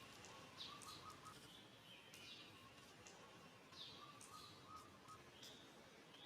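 Faint, high-pitched bird chirps, short and falling in pitch, repeating every half-second or so over a low hiss, with a faint wavering whistle lower down.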